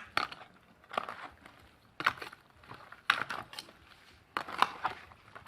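Chicken pieces being stirred and turned through a wet curry marinade of coconut milk and milk, a crackly mixing stroke about once a second.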